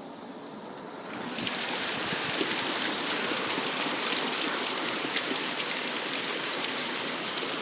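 Heavy pouring rain: a dense, steady hiss of rain with fine pattering drops, which comes up loud about a second in.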